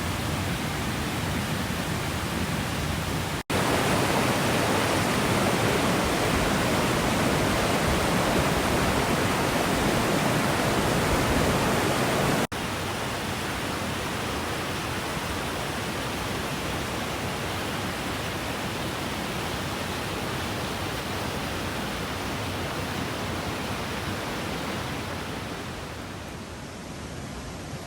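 Mountain stream rushing over rocks, a steady wash of water. Two abrupt cuts break it, and the stretch between them is louder; it eases off a little near the end.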